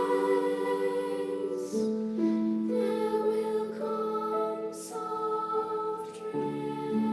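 Two-part treble choir singing a soft, slow passage of held notes that change every second or two, with a couple of brief 's'-like consonants.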